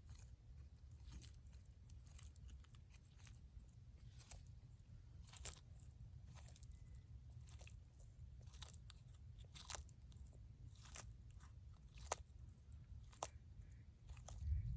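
A tortoise biting and chewing plant food: irregular crisp crunches, roughly one a second, over a faint low hum.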